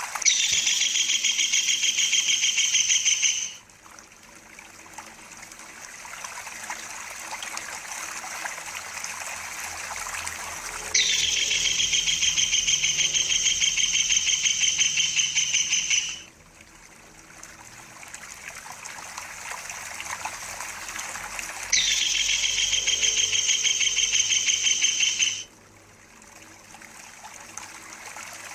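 Kingfisher (tengkek udang) giving its rolling trill call: three long, rapid, evenly pulsed high trills of several seconds each, starting and stopping abruptly, over the steady rush of running water.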